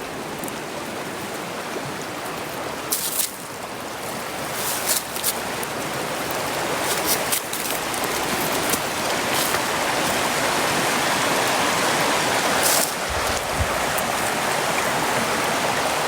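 Rushing stream water, a steady noise that grows steadily louder, as if the water is being approached. A few brief light clicks sound over it.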